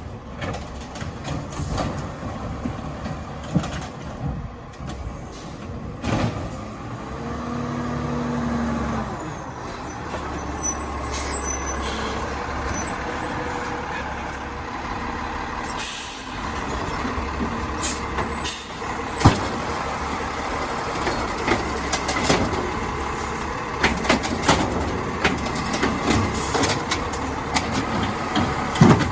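Crane Carrier garbage truck with an Amrep automated side loader running, with air-brake hisses and several sharp knocks over the steady engine noise.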